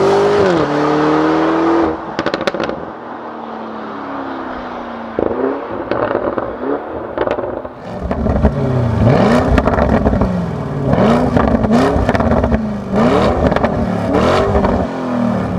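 Lamborghini Urus Performante's twin-turbo V8 pulling hard, then lifting off about two seconds in with exhaust crackles and pops. After a quieter stretch it is revved repeatedly, its pitch rising and falling about once a second, with more crackles between the revs.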